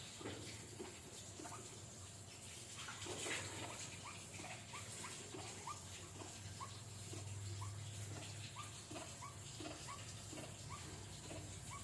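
Bird known locally as jujuk or tatapaian giving short, squeaky calls over and over, about two a second, each a quick slide in pitch. A brief, louder noise comes about three seconds in.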